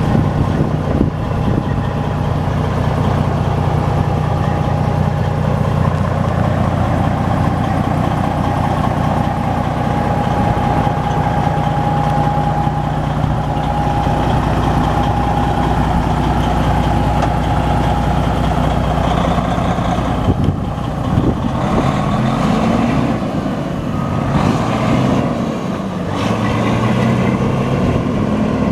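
1996 International truck tractor's engine running at a steady idle, then from about twenty seconds in its pitch rises and falls several times as it is revved.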